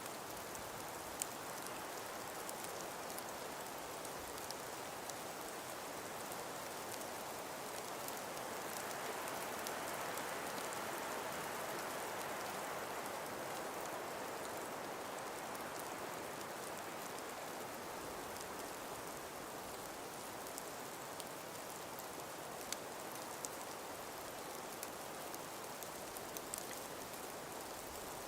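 Calm winter breeze through frost- and ice-covered forest trees, a steady rush that swells gently around the middle, with scattered light ticks.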